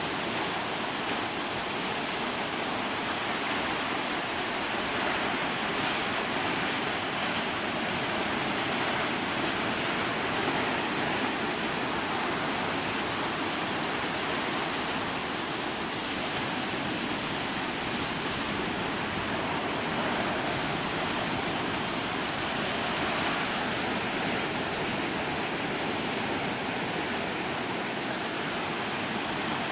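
Pacific surf breaking on a sandy beach: a steady wash of noise with little rise and fall.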